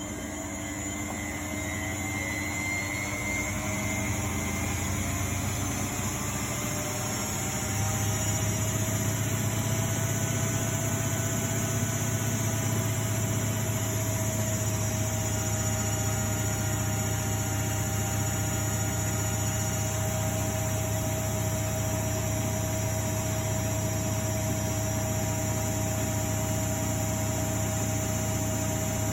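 Miele Novotronic W828 front-loading washing machine spinning up: a motor whine rises in pitch as the drum speeds up, then levels off about eight seconds in to a steady high-speed spin with a low hum, typical of the final spin (set to 1100 rpm).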